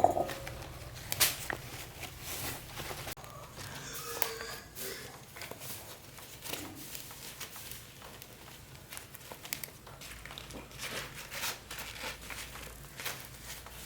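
Crinkling and rustling, with scattered light clicks and knocks, as of something being handled by hand.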